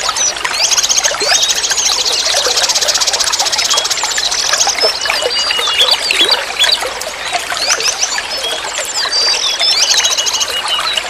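Forest stream flowing, with many songbirds chirping and whistling over it; a long, rapid trill runs from about one to four and a half seconds in.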